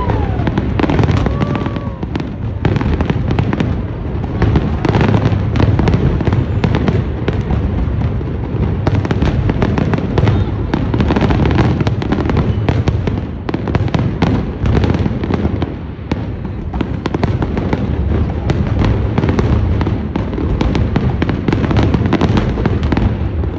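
Fireworks display going off continuously: a dense, unbroken run of bangs and crackles over a low rumble.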